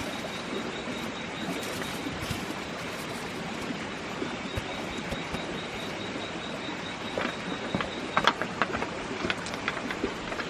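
Steady outdoor noise with a thin, high-pitched continuous tone, and a run of sharp clicks and knocks in the last few seconds.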